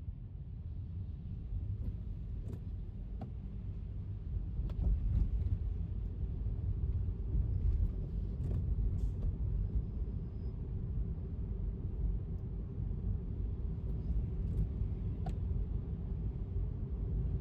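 Tesla electric car driving on a rain-wet road: steady low tyre and road rumble with a faint steady hum, and scattered sharp ticks over it.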